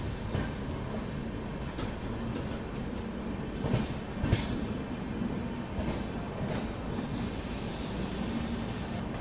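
Passenger train rolling slowly out of the station: a steady rumble of wheels on rail with a few sharp clacks over joints and points, and faint high wheel squeals around the middle and near the end.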